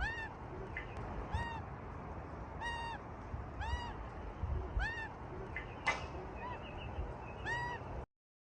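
A kookaburra giving short, rising-and-falling calls, about seven of them, roughly one every second and a quarter. A sharp click cuts in near the sixth second.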